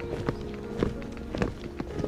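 Footsteps walking at a steady pace, a sharp step a little under twice a second, under background music with sustained tones.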